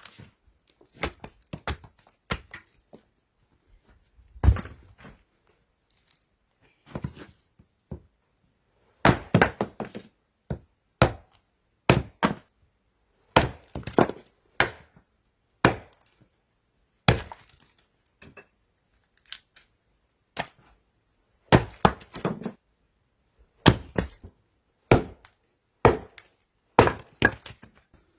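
Chopping with a blade on wood: a long string of sharp, irregular strikes, roughly one a second, some coming in quick pairs or clusters.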